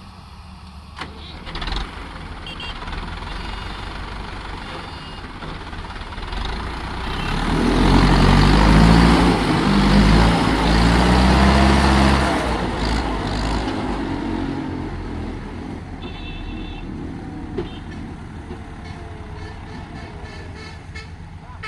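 Diesel engine of a rice combine harvester running under load. It builds up to a loud peak in the middle for about five seconds, then settles back to a steadier run.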